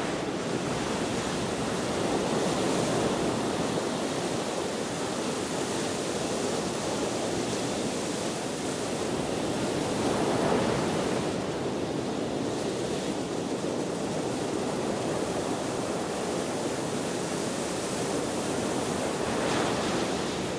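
Ocean waves washing ashore in the wind: a steady rushing surf that swells louder as a wave breaks, about every eight to ten seconds.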